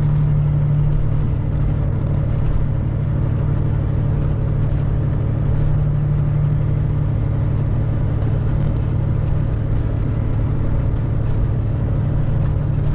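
Semi truck's diesel engine droning steadily while driving, with road noise, heard from inside the cab.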